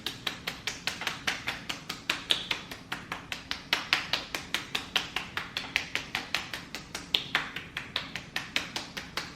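Hands tapping or patting on the face and skin during a face massage: a rapid, even rhythm of about five sharp taps a second.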